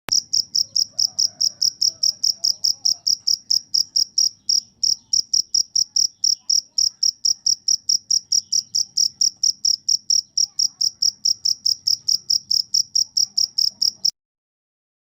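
Cricket chirping in an even, fast series of high, clear pulses, about five a second, that stops abruptly near the end.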